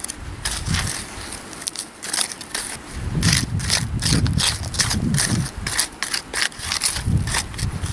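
Digging into riverbank stones and gravel: repeated crunching scrapes as a digging tool bites into the stones, with dull thuds about once a second in the second half.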